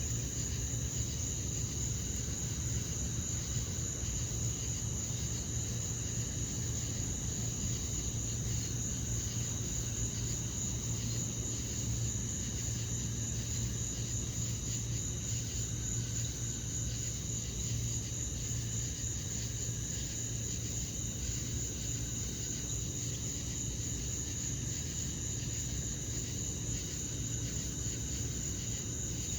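Crickets trilling in a steady, continuous high-pitched chorus, with a low steady hum underneath.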